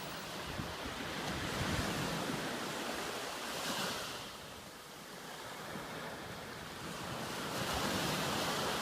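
Ocean surf breaking and washing up a beach. The rushing noise swells to a surge a few seconds in, ebbs, and builds into another surge near the end.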